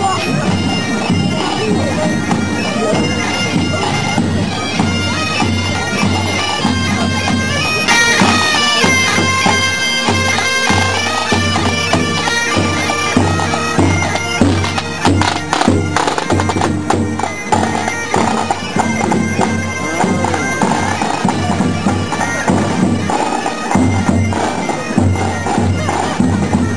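Bagpipes playing a marching tune over their steady drone. A rapid run of sharp cracks comes about halfway through.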